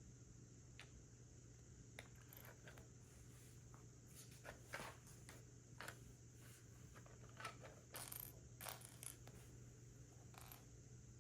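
Faint Lego bricks being handled: scattered small plastic clicks and brief scrapes, busiest in the middle.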